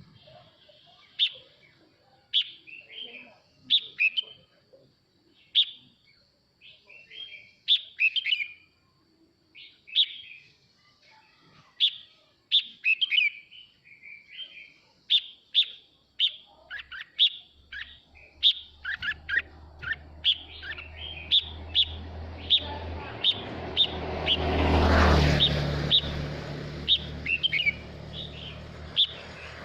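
Male red-whiskered bulbul singing, a long run of short, sharp chirps and warbled phrases. From about halfway a low droning hum builds, loudest late on, then eases off.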